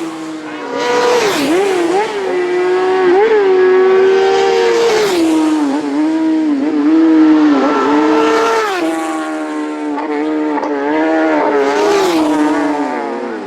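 Racing motorcycles at speed on a road circuit, engines revving hard. The engine pitch drops sharply several times as bikes pass, brake and shift, with quick blips of the throttle in between.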